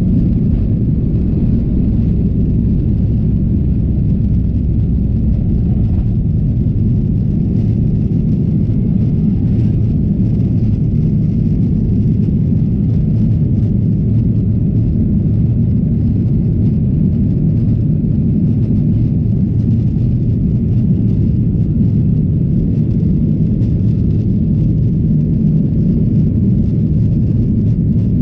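Steady low rumble inside the cabin of a Boeing 737-800, from its CFM56-7B engines and airframe.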